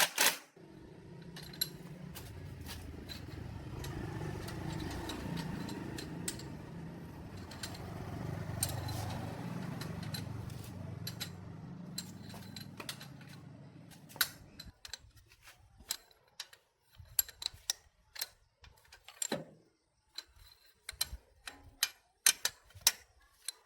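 A machine runs steadily for about fourteen seconds, swelling and easing a little, then stops suddenly. Scattered sharp clicks and knocks follow, like metal parts being handled.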